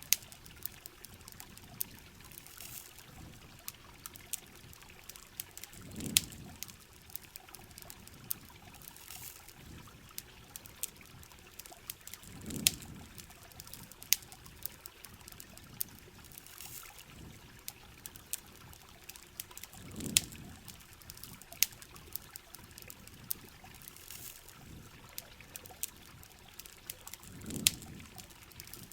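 Campfire crackling with frequent sharp pops over steady rain. A low, trickling water sound swells about every seven seconds.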